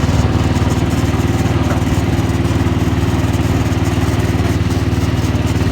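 Gravely tractor engine running steadily at a constant speed, with an even rapid firing pulse.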